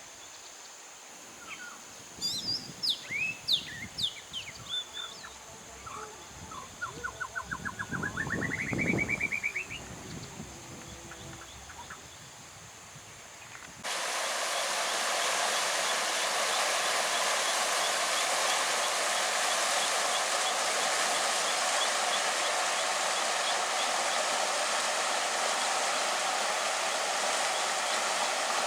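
Birds calling in the first half, with sharp chirps and a rising trill of quick, evenly spaced notes over low rustling. About halfway through it cuts abruptly to a steady rush of flowing water.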